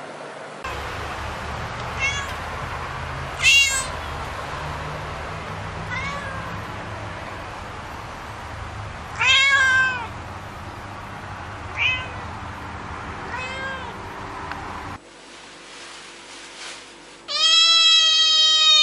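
Domestic cat meowing repeatedly: short meows every few seconds over a steady background hum, then a longer, louder meow near the end.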